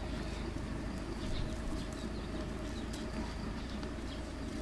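Steady outdoor background noise with faint bird calls.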